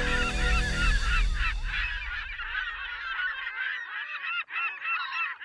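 A flock of birds calling in a dense, overlapping chorus of short honking cries, while a low music bed fades out during the first three seconds.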